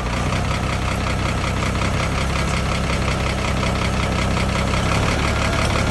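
Freshly rebuilt Nissan diesel engine idling steadily with an even diesel clatter, running again after its overhaul for melted pistons.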